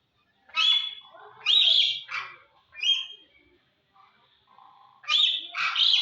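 A crane calling: loud, harsh calls, one after another, four in the first three seconds and two more close together near the end.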